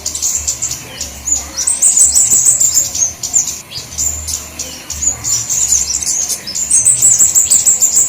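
Flowerpeckers calling: a dense, fast run of very high-pitched chirps and ticking twitters from several small birds, in a bird-lure recording.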